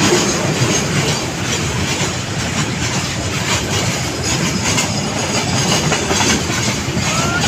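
Goods train of flat wagons loaded with long steel rails rolling past at close range: a continuous rumble with the wheels clattering over the rail joints.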